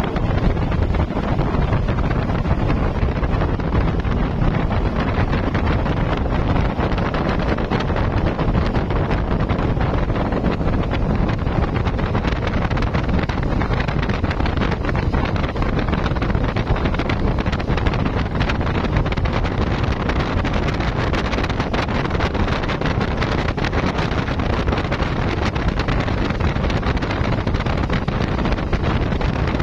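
Passenger speedboat under way at speed: a steady, loud drone of engine and water rushing past the hull, with wind buffeting the microphone.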